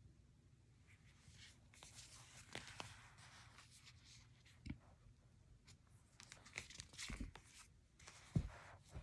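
Faint rustling with a few soft thumps, the loudest near the end: a board book being handled, its pages or covers moving.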